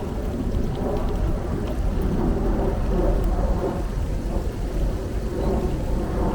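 Steady wind rumble on the microphone and rolling noise while riding a bicycle.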